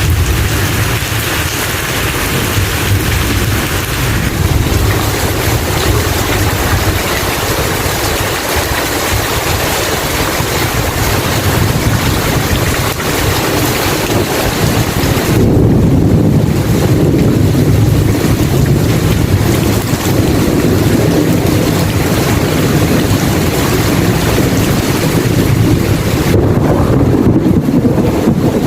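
Thunderstorm ambience: steady heavy rain and wind noise. From about halfway through the high hiss thins and a deeper rumble takes over.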